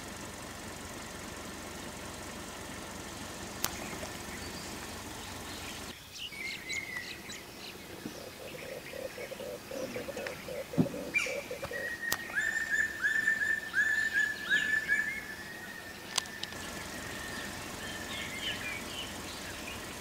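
Birds calling and chirping in forest ambience. About twelve seconds in, one bird gives a fast run of repeated high notes for several seconds. The first third is mostly a steady background hiss.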